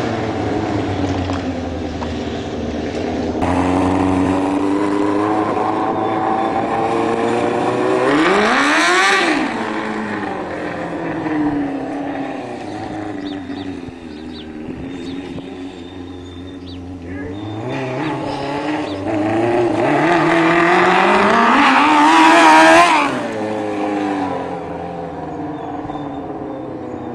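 Go-kart's Honda CBR600 inline-four motorcycle engine running hard, passing by twice: each time the engine note climbs to a loud peak, about nine seconds in and again near the end, then drops in pitch as it goes away.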